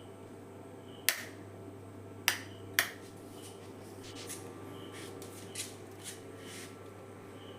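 Three sharp clicks over a steady low hum, the last two close together, with a few fainter ticks later on.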